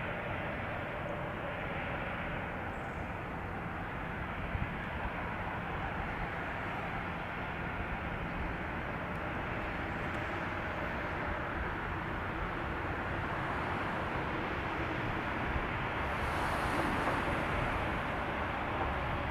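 Airbus A320neo's Pratt & Whitney PW1100G geared turbofan engines running, a steady jet rumble that grows a little louder near the end.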